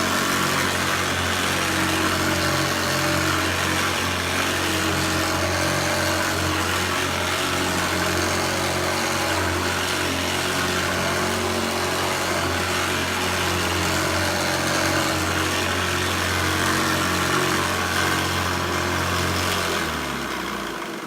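Hoover Senior Ranger U4002 upright vacuum cleaner running with its beater brush, with a steady hum that sounds a little rattly: the owner is sure something is loose underneath with the motor. About 20 seconds in it is switched off and the motor winds down.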